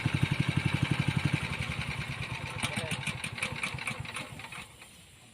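Small engine thudding at about ten beats a second, dying away over the first four seconds until it can barely be heard.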